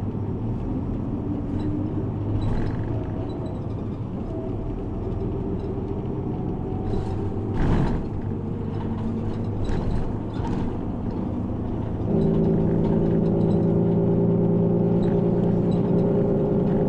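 City bus interior during a ride: the engine and road rumble run steadily, with a sharp jolt about eight seconds in. A louder steady droning hum sets in about twelve seconds in.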